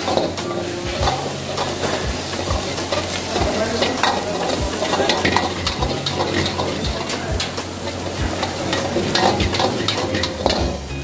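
Food frying in a pan with a steady sizzle, while a cooking utensil scrapes and knocks against the pan many times as the food is stirred. A steady low hum runs underneath.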